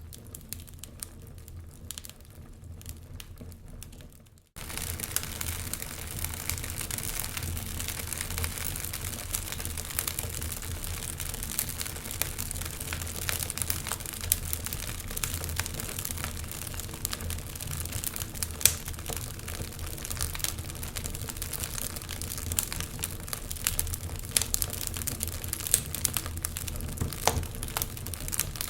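Wood fire crackling and popping with frequent sharp snaps. It is quieter for the first few seconds, drops out for an instant, then comes back louder and denser.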